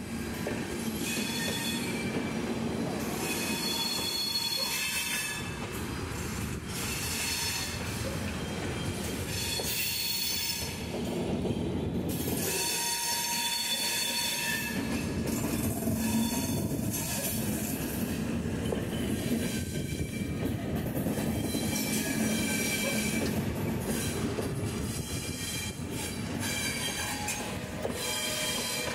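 Indian Railways LHB passenger coaches rolling slowly past as the train comes into the station, with a steady rumble from the wheels and bogies. High-pitched wheel squeal comes and goes, along with some clatter over the rail joints.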